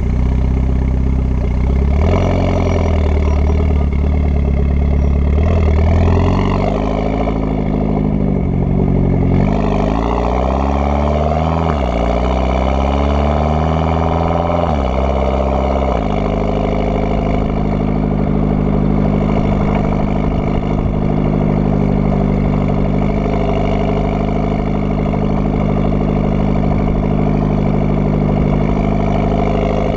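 Mitsubishi Lancer Evolution X's turbocharged 2.0-litre four-cylinder running through an AMS widemouth downpipe, AMS cat and AMS twin-tip cat-back exhaust: revved up and down several times, then holding a steady idle from about halfway through.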